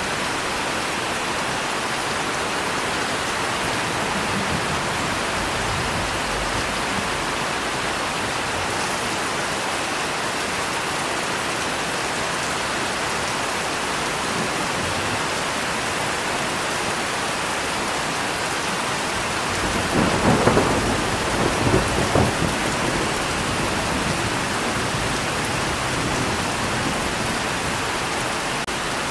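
Steady heavy rain falling, with a crackling roll of thunder about two-thirds of the way through that rumbles for roughly three seconds before fading back into the rain.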